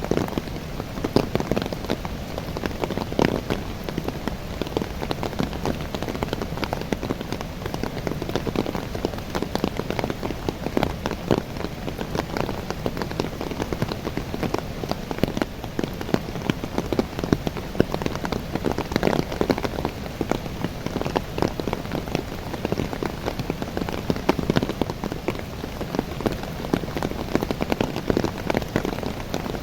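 Steady rain falling on the leaves of young coffee trees: a dense patter of many small drops.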